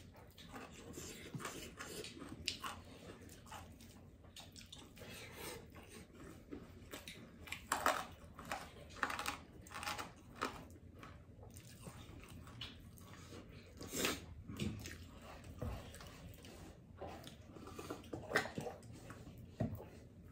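Close-up eating sounds of a man eating rice by hand: chewing and lip-smacking, with wet squishes of fingers mixing rice in the bowl, coming as irregular short wet clicks, a few of them louder.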